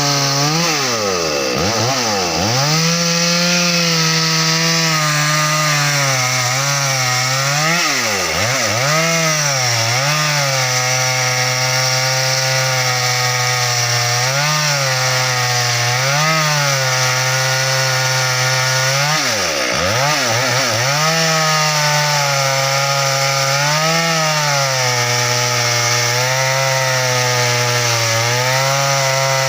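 Stihl MS 382 two-stroke chainsaw running at high revs while cutting teak branches. Its pitch sags deeply under load three times, near the start, about a quarter of the way in and just past the middle, each time recovering, with smaller wobbles in between.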